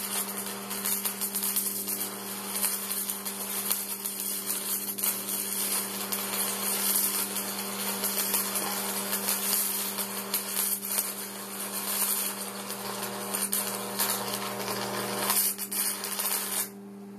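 Stick welding: the electrode's arc crackling and sizzling steadily as a bead is laid, over a steady low hum. The arc breaks off suddenly near the end.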